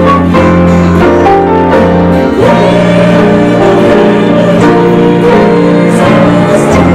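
Church worship band playing a slow song in sustained chords over a held bass note; the bass note changes about a third of the way in and again near the end.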